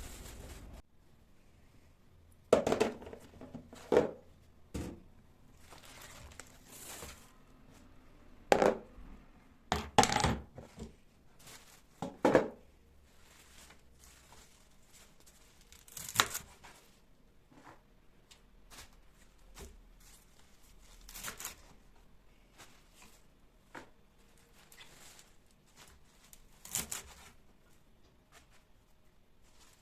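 Intermittent kitchen handling sounds: a scatter of sharp knocks and clicks as items are set down on a counter, with brief rustling and tearing between them. The knocks are loudest in the first half and thin out toward the end.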